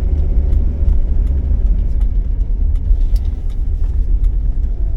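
Steady low rumble of road and engine noise inside a 1980s car being driven, with faint scattered ticks.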